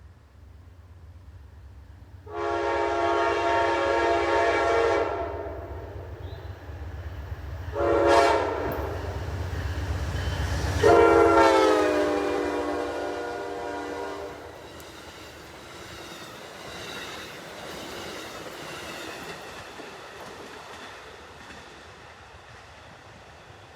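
An Amtrak passenger train's diesel locomotive sounds its air horn as it approaches: a long blast, a short blast, then a long blast whose pitch drops as the locomotive passes. The engine's low rumble and the clatter of the passing cars then fade away.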